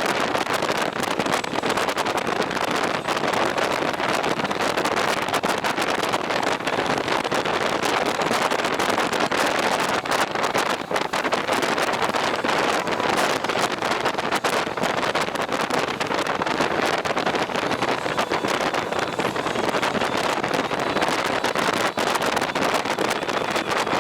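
Steady rush of wind buffeting the microphone while riding along a road, with vehicle and road noise mixed in.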